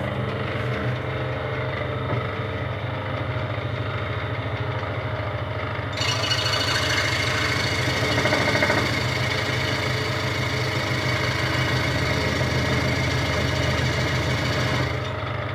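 Electric scroll saw (jigsaw table) running with a steady motor hum and blade vibration. About six seconds in, a louder hissing rasp joins in, then stops shortly before the end while the motor keeps running.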